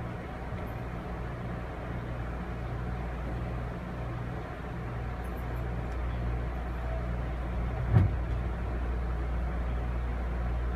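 Ride noise inside a moving Amfleet passenger coach: a steady rumble with a low hum that pulses regularly, and a single sharp thump about eight seconds in.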